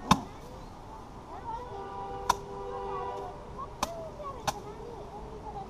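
Rice sheaves beaten by hand against a threshing surface to knock the grain loose: four sharp strikes, irregularly spaced, the first the loudest.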